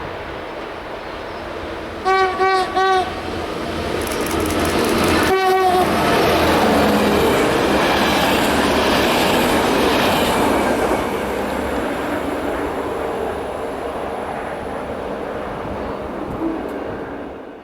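Train horn sounding three short blasts about two seconds in and one more short blast a few seconds later, followed by the running noise of a passing train, which swells and then slowly fades.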